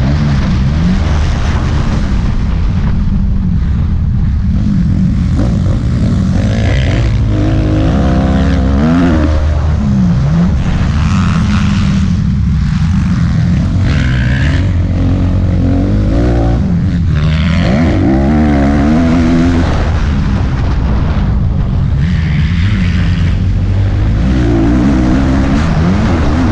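Motocross bike engine revving hard and easing off again and again, its pitch rising and falling every second or two as it is ridden through the track, over a steady low rumble.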